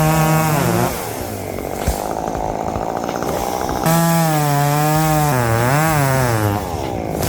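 Two-stroke chainsaw at high revs, its pitch wavering as it works through wood. It eases off about a second in and comes back to full throttle about four seconds in.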